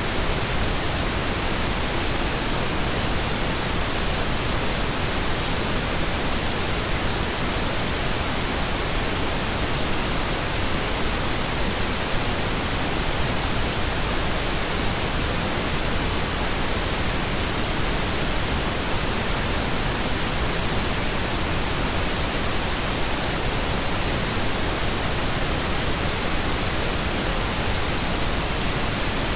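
Steady pink noise: an even, continuous hiss spread across the whole frequency range, with no changes or events.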